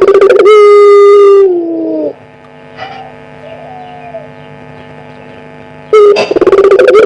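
Puter pelung dove (Barbary dove) cooing: each call opens with a fast rattling burst, then a long held note that slides down in pitch at the end. Two calls, the second starting about six seconds in, over a steady hum.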